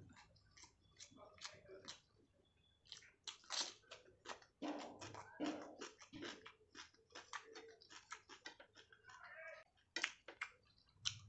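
Person eating rice and fish curry, with irregular soft clicks and wet mouth smacks of chewing.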